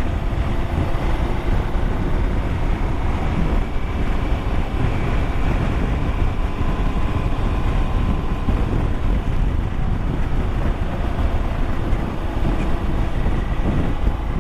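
Motorcycle engine running steadily at road speed, with wind rumbling on the microphone.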